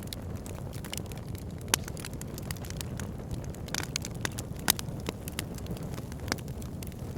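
Campfire burning: a steady low rumble under frequent sharp crackles and pops of burning wood, with a few louder pops, one a little under two seconds in and one near the middle.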